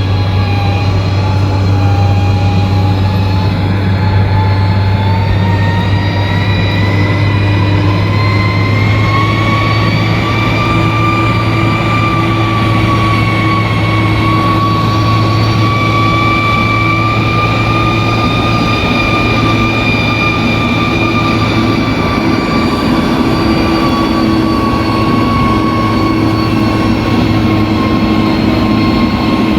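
Bulldozer's diesel engine running steadily, with a high whine that rises in pitch over the first ten seconds or so, then holds.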